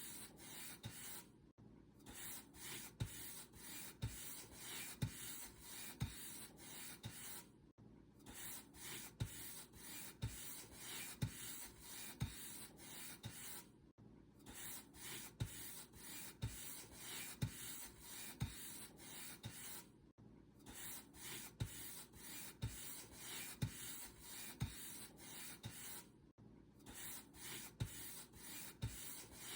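Paint brush bristles stroking back and forth over a surface in brisk, even strokes, more than one a second, with a brief pause about every six seconds.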